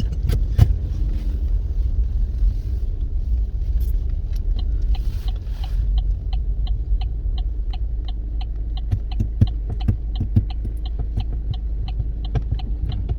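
Steady low road rumble inside a moving car's cabin. From about five seconds in, a light regular ticking of about two to three ticks a second runs over it.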